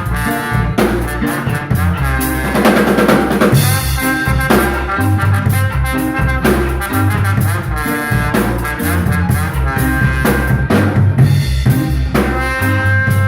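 Live instrumental band music with the drum kit to the fore: rapid snare hits, rimshots and bass drum over a bass line and held pitched tones from the other instruments.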